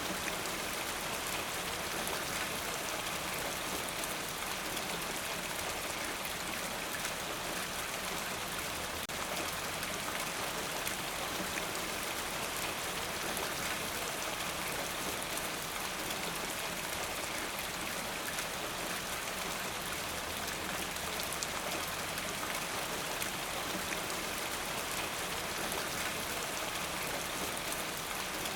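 Steady rain falling, an even dense patter of drops on surfaces.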